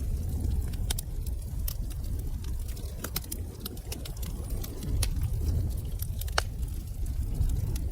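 Wood fire crackling in a fireplace: irregular sharp pops and snaps over a steady low rumble of burning, with one louder pop near the end.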